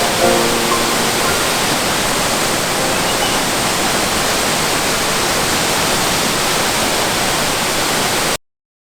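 Waterfall rushing steadily. Held music notes die away in the first second, and the sound cuts off suddenly near the end.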